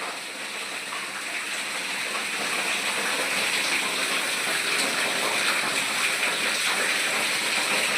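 Rainwater gushing and splashing as it pours through a leaking, damaged house roof, a steady rush that grows louder over the first few seconds.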